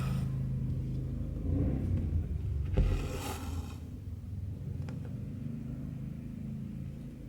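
Cotton embroidery thread drawn through cross-stitch fabric, a short swish about three seconds in, with a faint tick or two from the needle, over a steady low rumble.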